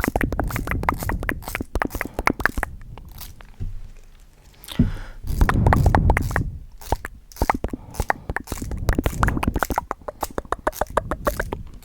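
Fast, aggressive ASMR triggers right on a high-sensitivity microphone: rapid crackly clicks and scratches with a heavy low thud, growing denser and louder for a stretch in the middle.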